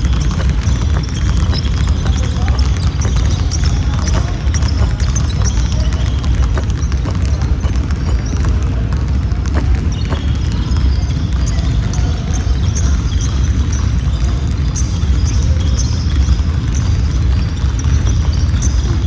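Basketball game sounds on a gym court: the ball bouncing, scattered knocks and short high squeaks, and occasional players' voices, over a steady low rumble.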